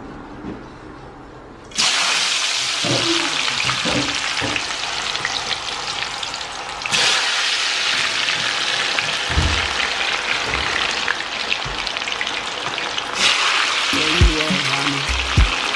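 Strips of raw food dropped into a pan of hot oil, setting off a sudden, loud deep-frying sizzle about two seconds in. The sizzle carries on and gets louder twice more, around seven and thirteen seconds in.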